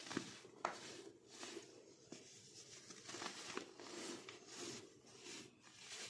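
Plain white baking soda being crunched: a run of soft crackling crunches, about two a second, with two sharper cracks in the first second.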